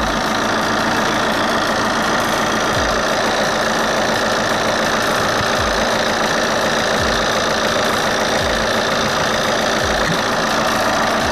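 Opel Astra H 1.9 CDTI four-cylinder diesel engine running steadily at an even speed, with the usual diesel clatter.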